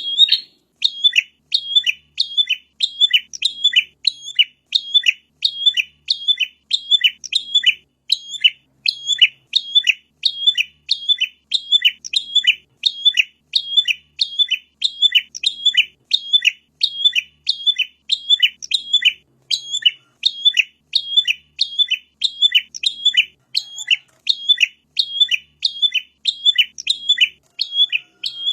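Prenjak (prinia) call: a sharp chirp repeated evenly about twice a second, played as a recorded lure call to draw in wild prinias.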